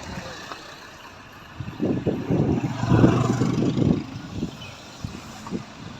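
Motor vehicle on the road, engine and road noise swelling about two seconds in and easing off after four.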